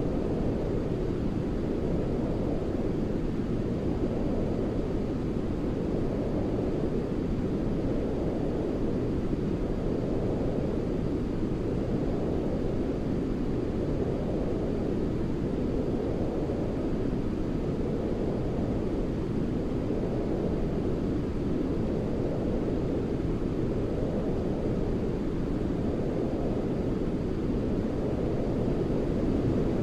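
Steady, deep rushing noise from a sleep-aid white-noise track. It is weighted toward the low end, like brown noise, and swells and eases gently every few seconds without a break.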